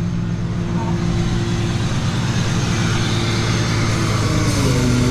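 A motor vehicle engine running steadily, its pitch dipping and then rising again near the end as the revs change.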